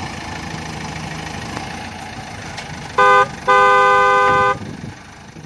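A toy vehicle's electronic engine sound runs steadily, then its horn beeps twice, a short beep followed by a longer one of about a second, before the sound fades away.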